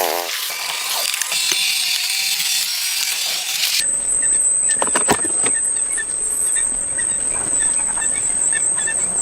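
A pressure washer's motor winds down and stops. A high hiss of spraying water runs on for a few seconds. After an abrupt change comes a steady high-pitched insect drone with a few sharp knocks.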